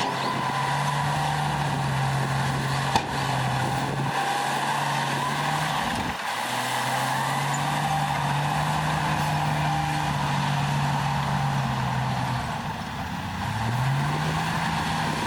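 Heavy diesel engine of earthmoving equipment running steadily, dropping briefly about six seconds in and revving up near the end, with a single sharp click about three seconds in.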